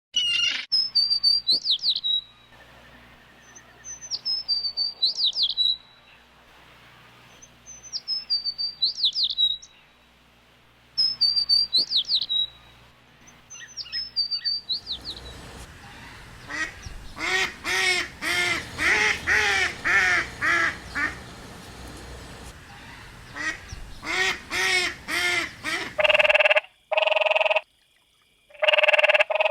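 Bird calls: a short phrase of high, falling whistled notes repeated four times, then from about halfway a fast run of harsh, repeated calls. Near the end a different, evenly pulsed animal call starts.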